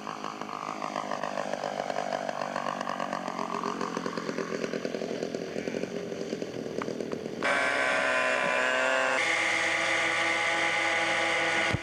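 Radio-controlled scale model airplane engine buzzing, its pitch sliding down and back up as the plane flies past. About 7.5 seconds in the sound cuts abruptly to a louder, steadier model engine.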